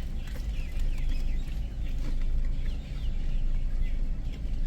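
Small birds chirping repeatedly in short, quick downward-sliding calls over a steady low rumble.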